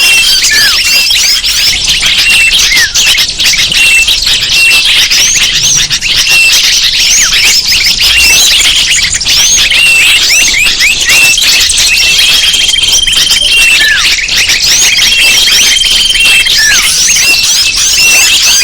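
Bird-lure recording: a dense chorus of many small birds chirping and calling at once, full of quick falling notes, with a few longer held high whistles.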